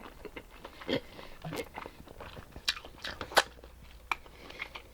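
Close-miked eating of sauce-covered lobster tail: chewing with wet mouth clicks and smacks. The sharpest clicks come about one, one and a half, two and a half and three and a half seconds in.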